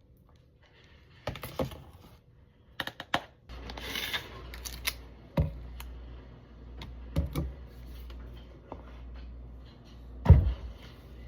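Irregular clicks and knocks of small objects being handled, with a brief hiss about four seconds in, over a low steady hum that starts a few seconds in.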